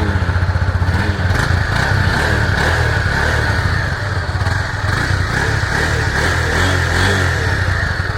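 Honda CB300F's 293 cc oil-cooled single-cylinder engine running steadily at about idle through its exhaust, with a slight rise in revs now and then.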